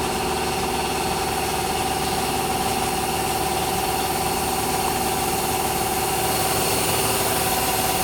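Air compressor running steadily, building up pressure in its tank.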